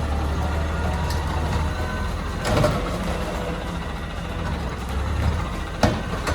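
Recycling truck's engine running steadily, with a short burst of noise about two and a half seconds in and a sharp knock near the end.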